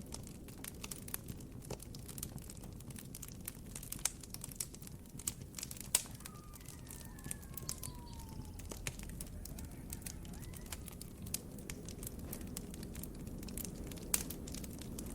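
Campfire crackling: frequent irregular sharp pops and snaps over a steady low rumble. A few faint falling calls, a distant bird or animal, come in the middle.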